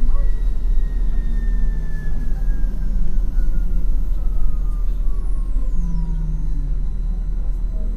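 MAN NL253 Hybrid city bus slowing down: the whine of its electric drive falls steadily in pitch through the whole stretch, over a loud low rumble from the moving bus.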